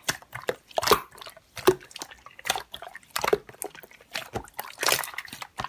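Slime being squeezed and worked by hand: irregular wet clicks and small pops.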